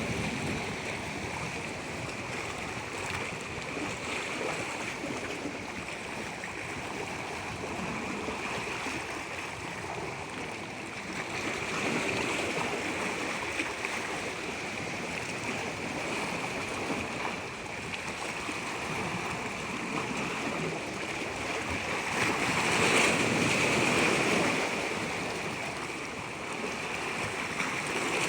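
Water rushing in a steady wash, swelling louder about halfway through and again near the end.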